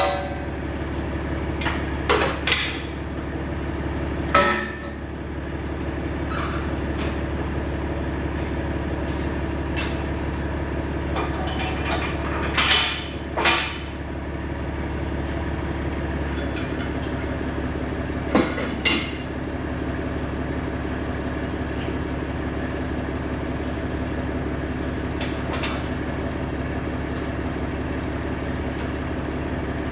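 Heavy diesel truck engine idling steadily, broken by a few sharp metallic clanks and knocks, the loudest about 4 s and 13 s in. The engine's note shifts slightly about 16 seconds in.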